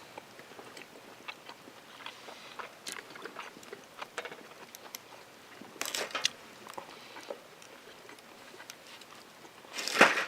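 A person chewing and biting food close to the microphone: irregular small crunches and mouth clicks, with a few louder crunches about six seconds in and the loudest one near the end.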